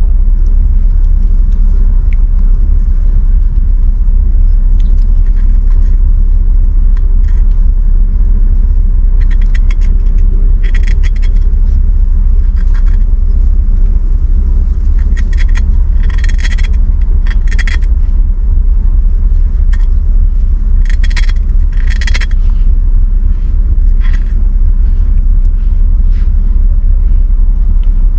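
Loud, steady low rumble throughout, with several short scratchy sounds clustered in the middle.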